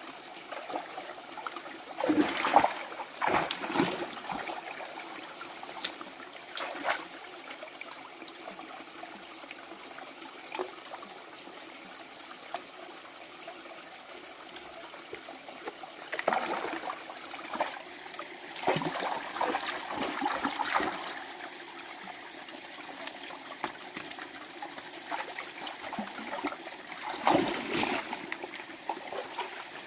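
Water trickling steadily, with louder splashing now and then.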